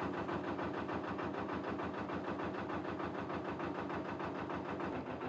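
Narrowboat diesel engine idling steadily, with an even, quick thudding pulse.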